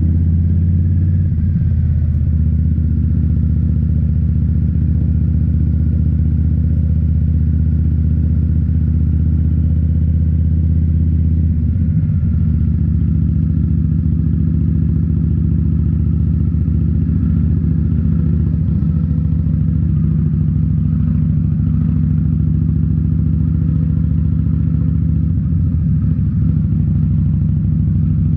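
2018 Indian Scout Bobber's V-twin running through Rinehart slip-on mufflers, a loud steady exhaust note. The pitch of the low note changes about twelve seconds in.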